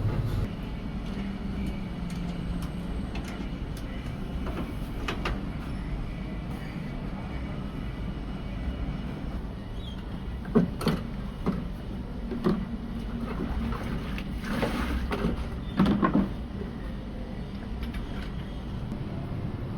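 Workshop machinery running with a steady low hum, with several sharp metal knocks and clinks in the second half, the loudest two about six seconds apart.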